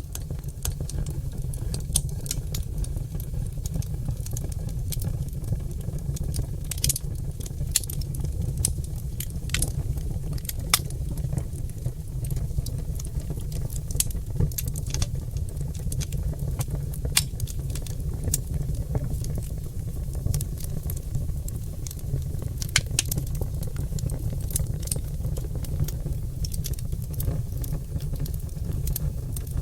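Oak log fire crackling and popping in a fireplace: irregular sharp pops several times a second over a steady low rumble.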